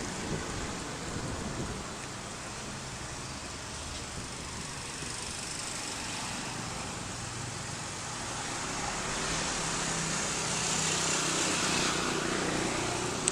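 A road vehicle running: a steady rush of wind and road noise with a faint engine hum underneath. It grows louder in the last few seconds, then cuts off abruptly.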